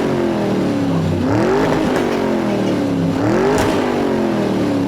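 Engine revving in repeated swells, the pitch rising and falling about every second and a half to two seconds, about three times.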